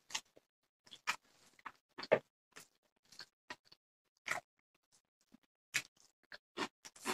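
Close-up eating sounds: wet chewing and lip smacks from a person eating rice and fish curry by hand, heard as irregular short clicks and smacks with quiet gaps between them.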